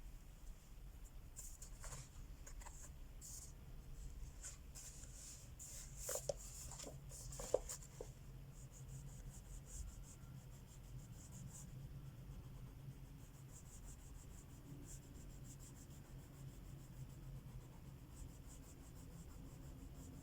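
Crayola wax crayon scratching over a colouring-book page in steady strokes, with a fast run of quick back-and-forth shading strokes a little after the middle. Two light knocks come around six and seven and a half seconds in.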